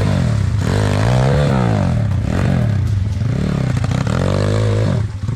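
Pit bike engine revving up and down over and over, about once a second, labouring as the bike struggles up a hard section. The revving stops suddenly near the end.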